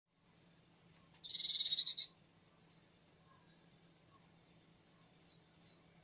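Bird calls: a fast, harsh rattling call lasting nearly a second, then a few short high chirps that each slide down in pitch.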